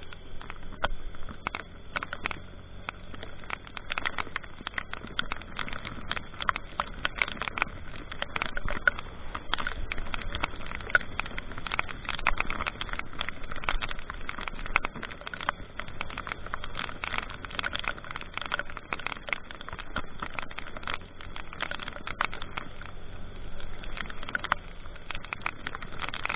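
A vehicle travelling in heavy rain. A steady low engine and road drone runs under a dense, irregular patter of sharp ticks, typical of raindrops striking close to the microphone.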